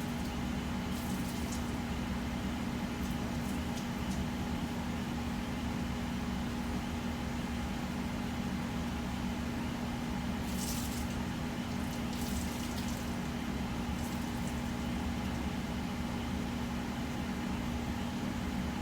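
The intercooler system's electric pumps and dual heat-exchanger fans running with the engine off: a steady hum with one constant low tone and a few brief hisses. The pumps include a Rule 2000 pump and the factory intercooler pump, circulating coolant through an ice tank.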